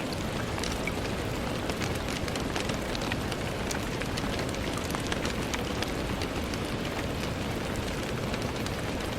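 Steady rain on a window: a continuous hiss with many scattered sharp drop ticks.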